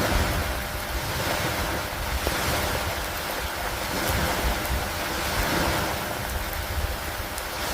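Steady rain and wind over open lake water: a dense hiss that swells and eases every two seconds or so, with a low rumble underneath.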